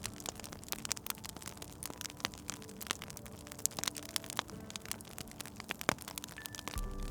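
Wood fire crackling, with many irregular sharp pops and snaps, over faint soft held musical tones.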